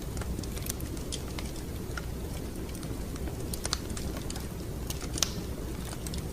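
Wood fire crackling in a fireplace: irregular sharp pops and snaps over a low, steady rumble. One pop stands out louder about five seconds in.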